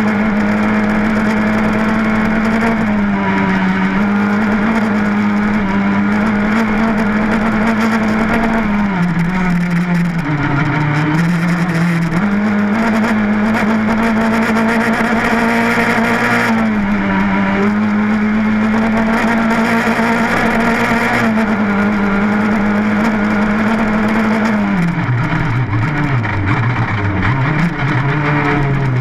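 Rally car engine heard from inside the cabin, held at high revs flat out along a gravel stage. The revs dip and recover briefly about ten seconds in, then drop and climb again several times near the end.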